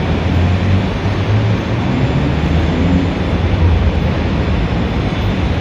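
Busy city street ambience: a steady, loud rumble of motor traffic, with no single vehicle standing out.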